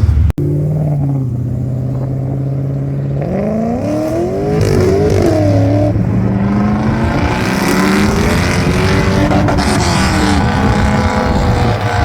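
Car engine running steadily, then revved: its pitch climbs and dips several times, settles, then rises and falls again. A short drop-out comes just after the start.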